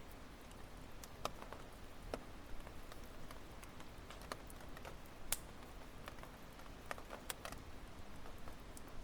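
Firewood burning in a campfire, crackling with irregular sharp pops over a soft steady hiss; one pop about five seconds in stands out as the loudest.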